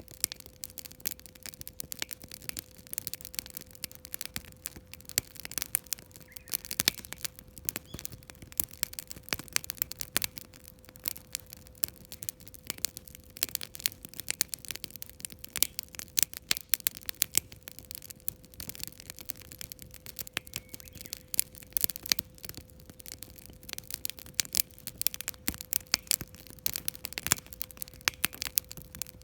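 Wood campfire crackling: dense, irregular pops and snaps. A faint steady hum sits underneath.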